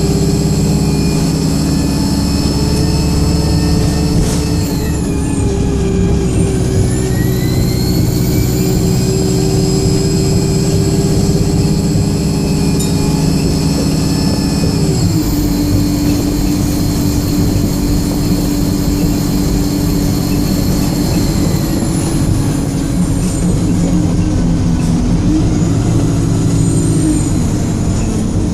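Alexander Dennis Enviro 200 single-deck bus under way: the diesel engine runs hard under a high-pitched screaming whine that glides up and down with speed. A whine sweeps up about four seconds in and climbs again a few seconds later, and a steady high scream from about halfway falls away near the end.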